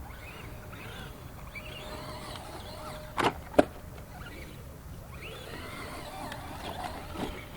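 Small brushed electric motor of a 1/10-scale RC rock crawler whining up and down as the truck drives, over a steady low rumble, with two sharp knocks a little under half a second apart about halfway through.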